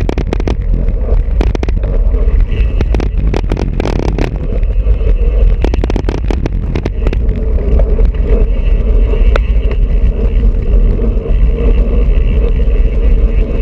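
Wind buffeting a bicycle-mounted GoPro's microphone as the bike rides along, with road rumble. Many sharp clicks and rattles come in the first half, then the sound settles into a steadier hum.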